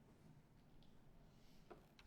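Near silence: room tone with a faint click near the end.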